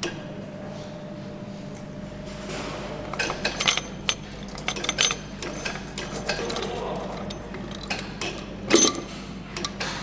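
Engine assembly work: scattered metallic clicks, clinks and knocks of parts and hand tools over a steady machinery hum, with one louder knock near the end.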